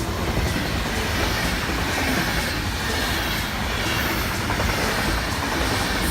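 Train passing, with a steady rolling noise of wheels on the rails.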